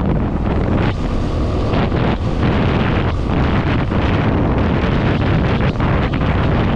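Heavy wind buffeting on the microphone while riding, with the Yamaha WR250R's single-cylinder engine running steadily underneath.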